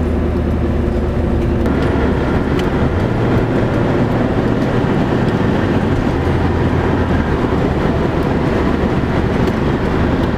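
Steady road and engine noise inside a moving car, with a low hum underneath.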